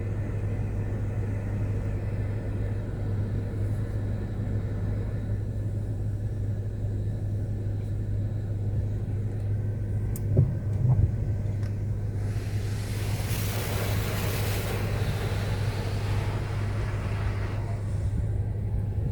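Steady low drone of an automatic car wash heard from inside the car. Two dull knocks come about halfway through, then a hissing spray sweeps over the car for about five seconds as the pre-soak cleaning product is applied.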